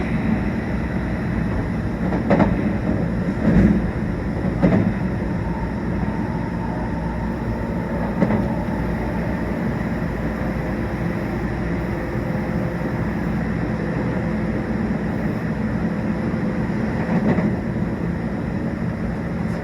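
Meitetsu 1800 series electric train running at speed, heard from inside the car: a steady rumble of wheels on rails. Sharp knocks come as the wheels cross rail joints, three close together in the first five seconds and a couple more later.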